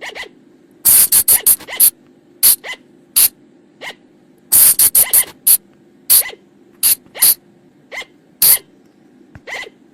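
Sunda flying lemur (colugo) calling: a run of short, sharp, shrill cries, bunched in quick flurries about a second in and again around four and a half seconds in, and otherwise coming singly about every half second. A steady low hum lies beneath.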